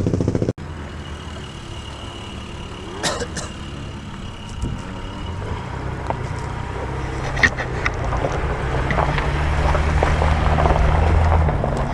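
A dirt bike engine running that stops abruptly about half a second in. Then a quieter engine hum with a few sharp metallic clanks, and a low engine hum building near the end.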